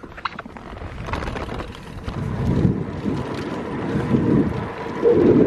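Wind buffeting the microphone of a camera carried on a moving bicycle, a low rumble that swells and fades, loudest near the end.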